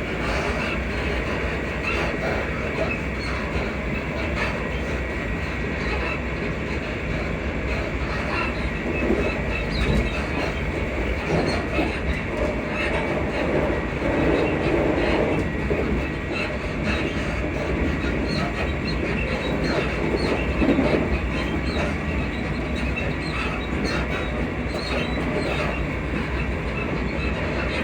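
Interior of a Class 334 (Alstom Juniper) electric multiple unit running at speed: steady rumble of wheels on rail with clickety-clack over the joints, and squeaks from the carriage suspension.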